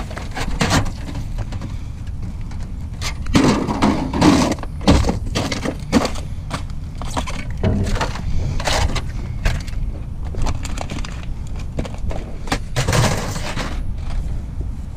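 Objects knocking and clattering irregularly as a pile of trash is rummaged through by hand, with wind rumbling on the microphone.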